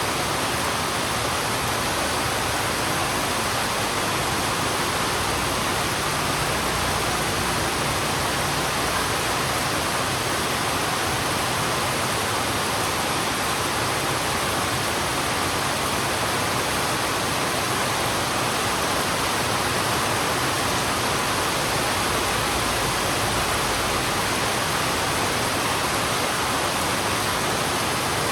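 Heavy rain falling steadily on a road, an even unbroken hiss of water with no distinct drops or other events.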